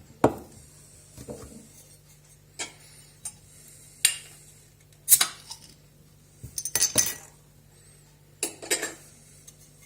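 Metal bottle opener clinking against a glass beer bottle as its cap is pried off: a handful of sharp, separate clicks and clinks spread over several seconds.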